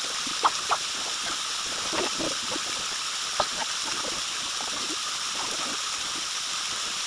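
Waterfall water rushing steadily, with gurgling and splashing and a few short sharp splashes near the start and midway.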